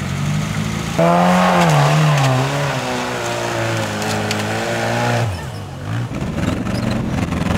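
Off-road 4x4's engine revving under load while climbing a steep dirt slope, its pitch rising and falling, louder from about a second in. The revs drop sharply about five seconds in, then pick back up.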